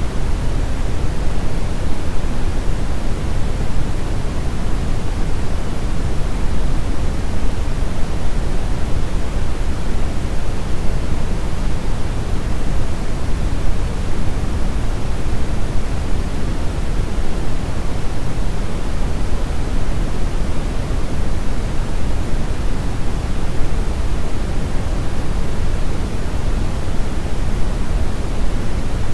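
Steady brown noise: an even, continuous hiss-rumble weighted toward the low end, with no change or events.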